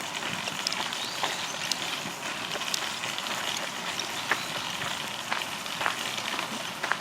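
Footsteps crunching on a walking path: irregular crackles and crunches over a steady outdoor hiss.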